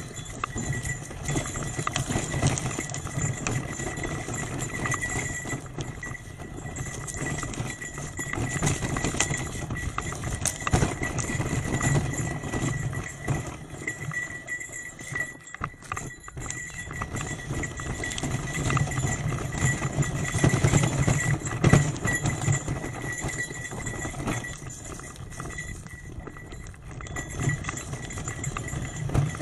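Trek 8.3 DS hybrid bicycle riding a rough forest road: a constant rattle of small knocks from the bike over the surface, over a low rumble of tyres and wind.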